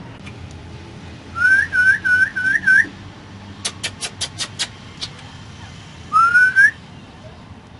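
Indian ringneck parrot whistling: a quick run of five rising whistled notes, then six sharp clicks in a row, then one long rising whistle near the end.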